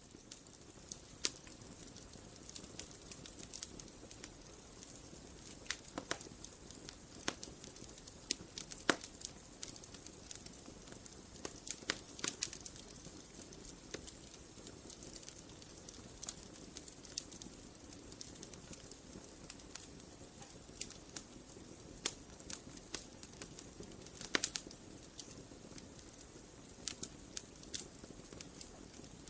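Wood campfire crackling: a steady low rush of flames with frequent, irregular sharp pops and snaps from the burning wood, a few of them louder than the rest.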